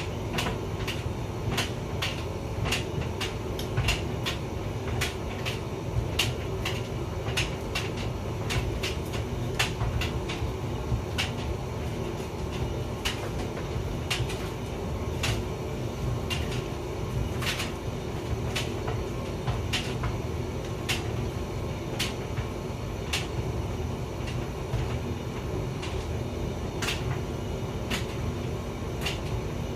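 Hotpoint vented tumble dryer running with a steady low rumble and hum of its drum and fan. Irregular sharp clicks and knocks come about once or twice a second as the load tumbles against the drum.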